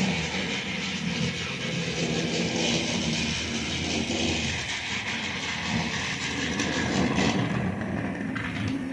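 009 narrow-gauge model locomotive running on its track: a steady whirring run.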